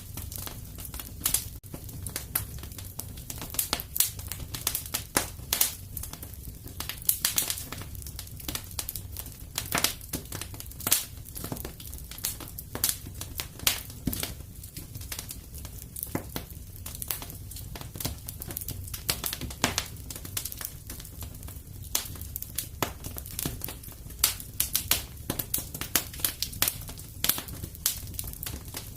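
Wood fire in a fireplace burning steadily, with irregular crackles and sharp pops over a low rumble of the flames.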